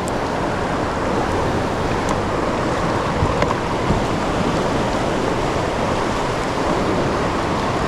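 Steady rush of fast, turbulent river current in the tailwater below a hydroelectric dam, a continuous hiss of moving water.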